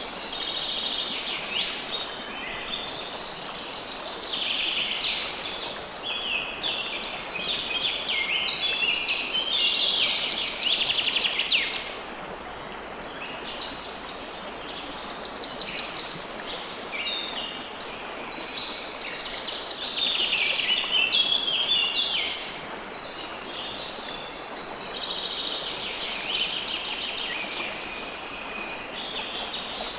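River water flowing steadily under birds singing in repeated spells of rapid, high chirping trills. The bird song swells and fades several times.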